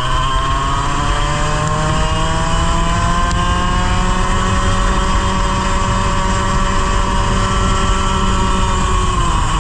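100cc racing kart engine under full throttle, its pitch climbing slowly for about five seconds, holding high, then falling sharply near the end as the throttle comes off. The slow pick-up fits the fault the driver describes: the engine loses revs through corners and only gets its power back partway down the straight.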